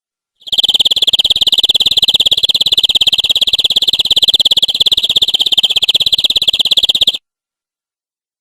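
Canary singing one long, very fast trill at a steady high pitch; it starts about half a second in and cuts off abruptly after about seven seconds.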